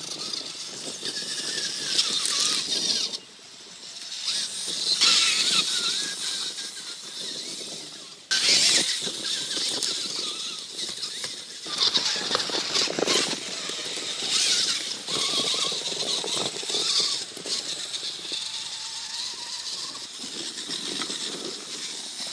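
Axial XR10 motor-on-axle RC rock crawler's two electric drive motors and axle-mounted transmissions whining under throttle, the pitch rising and falling in bursts, cutting out briefly about three and eight seconds in and picking up again.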